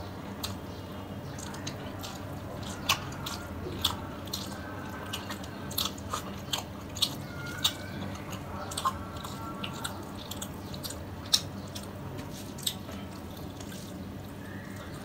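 Close-miked eating of rice and fish curry by hand: irregular sharp, wet mouth clicks and smacks of chewing, with soft squishes as the fingers mix the rice.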